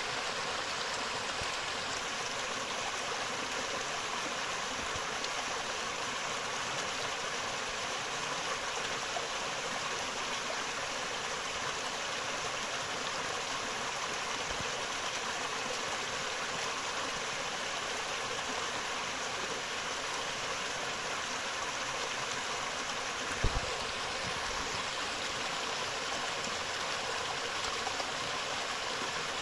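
Forest river flowing, a steady even rush of water. One brief low thump late on.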